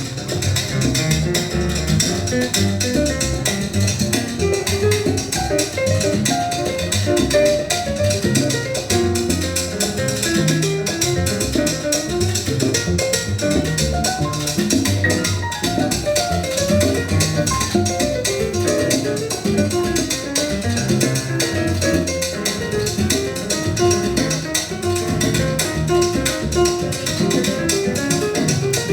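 Latin jazz ensemble playing live: a steady Latin groove with guitar and drum kit.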